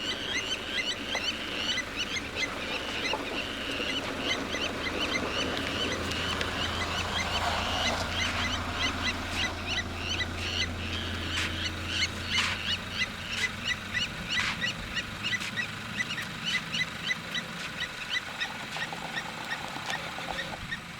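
Blacksmith lapwings giving their sharp, metallic alarm calls, repeated several times a second. A low steady hum runs under them through the middle part.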